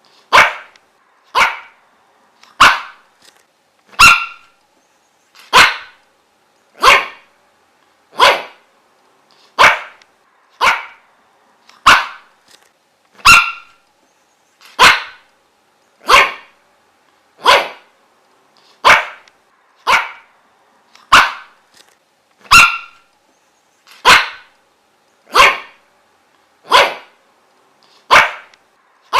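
A dog barking single, sharp barks over and over at a steady pace of about one bark every second and a half, with short silences in between.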